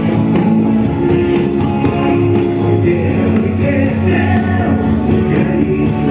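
A live rock band playing a song, with a singing voice over guitars and bass.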